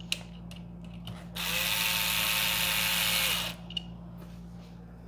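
Small electric screwdriver running for about two seconds, driving an M3 screw to fix the extruder's print fan. A few small clicks of handling come just before and just after.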